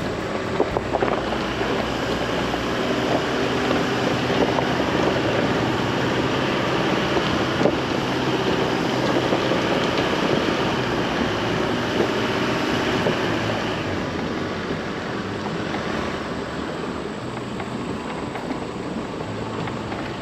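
Chevy Colorado ZR2 AEV Bison pickup driving a rough dirt trail: steady engine and tyre noise with scattered knocks.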